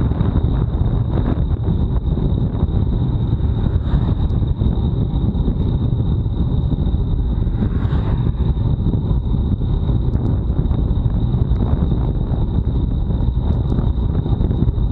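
Steady, loud rumble of wind buffeting an action camera's microphone on a bicycle ridden fast in a time trial, with a thin steady high whine underneath.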